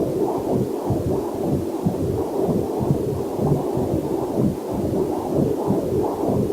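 Fetal heartbeat picked up by a fetal Doppler monitor: quick, even, whooshing pulses, with a faint waterfall hiss mixed underneath.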